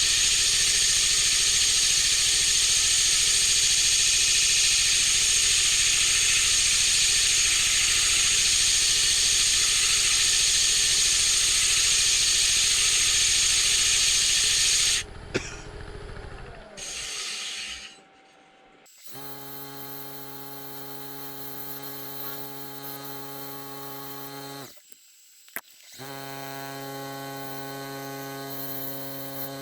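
80-grit sandpaper wrapped around a wooden block pressed against a spinning poplar lampshade on a wood lathe, giving a loud, steady sanding hiss. It stops about halfway through, leaving the lathe's steady motor hum, which cuts out twice briefly.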